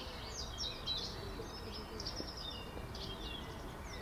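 Small birds chirping and twittering, many short quick chirps a second, over a steady low outdoor rumble.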